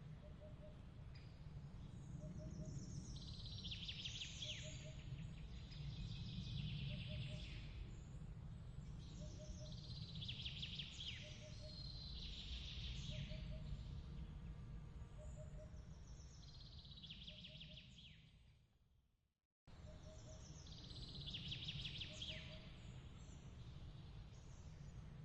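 Layered night-ambience soundscape: bird-like chirping phrases come every few seconds, a soft, regular triple chirp sounds about every two seconds, and a low steady rumble runs underneath. About nineteen seconds in, everything fades to silence and then restarts abruptly, as a looped track does.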